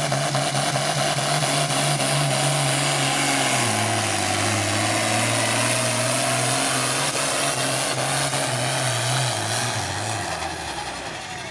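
Engine of a competition pulling vehicle running hard under load down the track with the sled, its note stepping down in pitch about four seconds in, then fading near the end as the run finishes.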